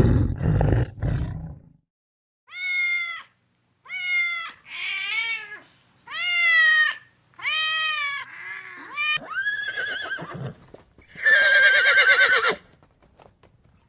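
A roar trailing off in the first two seconds, then a series of about six short, high animal calls, each rising and falling in pitch. A longer wavering call follows near the end.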